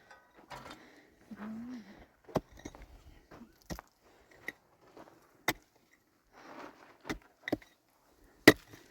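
A series of sharp, irregular knocks, about six over a few seconds, with faint rustling between them, like objects being handled and set down or struck.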